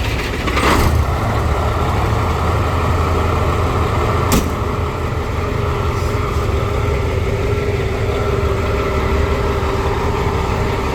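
Large truck engine idling with a steady low rumble, just after being started. A faint steady whine joins it about five seconds in, and there is one sharp click about four seconds in.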